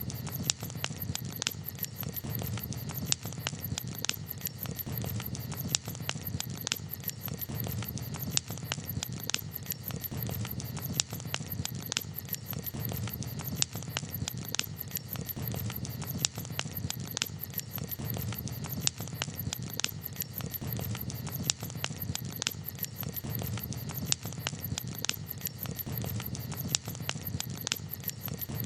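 Campfire crackling: frequent irregular sharp pops and snaps over a low steady rumble.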